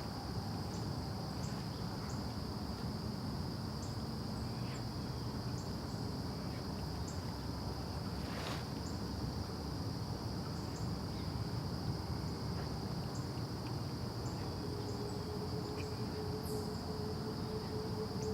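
A steady high-pitched trill of insects, with short high chirps scattered through it, over a low rumble of background noise. A low steady hum comes in about three quarters of the way through.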